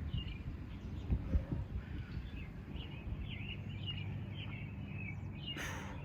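Birds chirping, many short calls, over a steady low rumble of outdoor noise. A brief rustle comes near the end.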